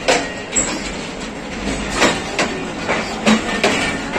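Passenger train coaches rolling slowly along a station platform, their wheels clacking irregularly over rail joints, roughly two clacks a second, over a steady rolling rumble.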